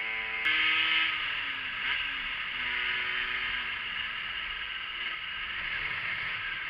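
Yamaha motorcycle engine heard from the rider's position, its revs falling as the bike slows and then holding steady at a lower pitch, under steady wind and road noise.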